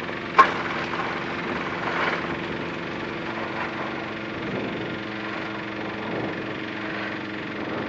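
Tecnam P92's engine running steadily at idle with its propeller turning, as the light aircraft lands and rolls out after the flare. A short sharp click sounds about half a second in.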